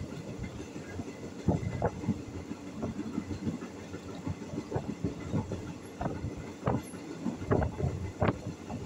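Passenger train carriage in motion: a steady rumble with irregular clattering knocks of the wheels and carriage running over the track.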